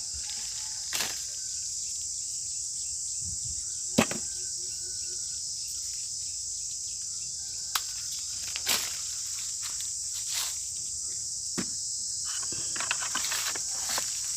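Steady high-pitched chorus of insects chirring in the trees, with a few scattered sharp knocks and rustles, the loudest about four seconds in.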